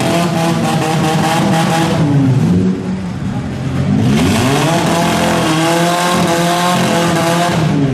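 Four-cylinder demolition-derby car engines revving hard, the pitch climbing and falling. About halfway through one climbs in a long rising rev and holds high until near the end.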